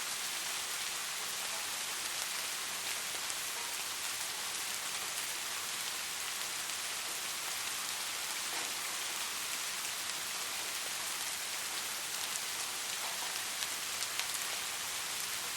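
Steady rainfall: an even hiss of rain with scattered drops ticking faintly through it.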